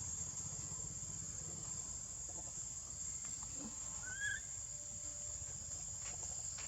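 Outdoor ambience with a steady high-pitched hum and a low rumble, broken about four seconds in by one short, rising high squeak.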